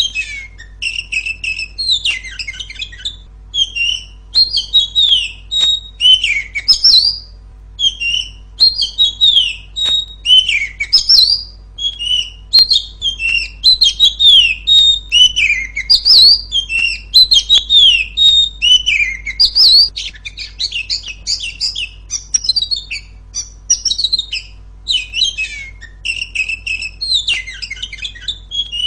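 Female oriental magpie-robin (kacer) singing continuously. It is a loud, varied run of clear whistles and chattering phrases, many of them sliding up and down, following one another with barely a break.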